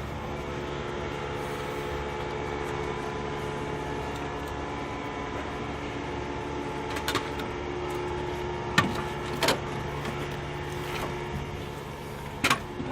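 A steady engine drone runs throughout. A few sharp knocks and clicks come about seven and nine seconds in and again near the end.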